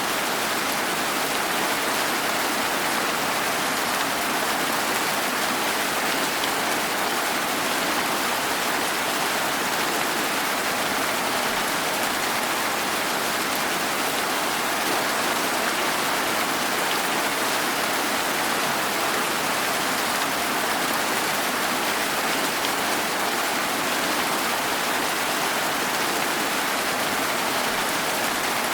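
Steady rain falling: an even, unbroken hiss that holds the same level without pause.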